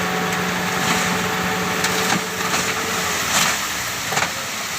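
Dump truck engine running steadily. About two seconds in, its steady tone drops out, leaving a hissing rush broken by a few knocks.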